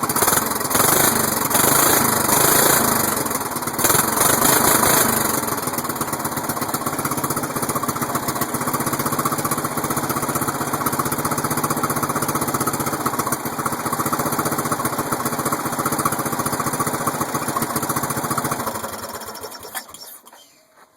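Briggs & Stratton engine of a Murray riding mower running after a cold start. It is louder twice in the first few seconds, settles into a steady run, then is shut off near the end and winds down to a stop.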